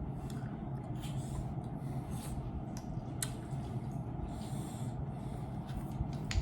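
Steady low hum of room noise with faint rustling and a few small clicks.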